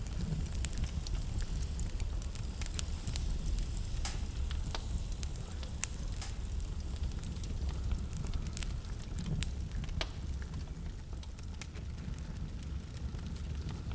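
Wood fire burning in a fireplace: a steady low rumble of flames with irregular sharp crackles and pops, busier in the first half.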